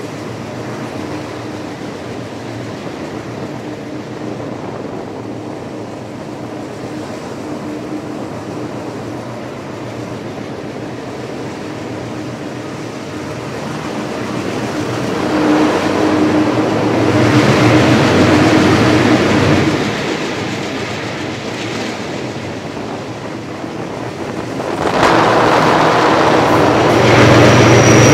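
Train rolling along the track, a steady hum running under the noise of the wheels on the rails. It grows much louder as the train passes through short rock tunnels, once about halfway and again in the last few seconds.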